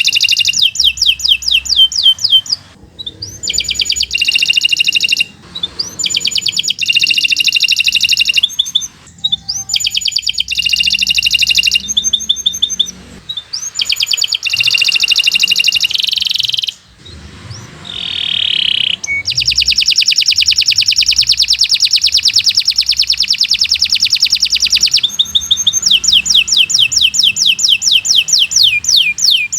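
Domestic canary singing a long, fast song: runs of rapidly repeated high notes broken by short pauses, a long unbroken trill in the middle, and quick sweeping notes near the end.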